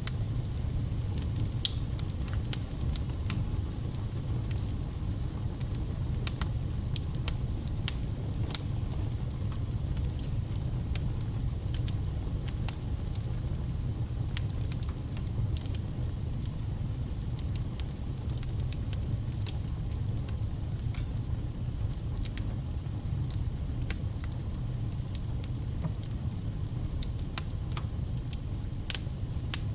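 Wood campfire burning, with frequent sharp crackles and pops of the burning logs over a steady low rumble.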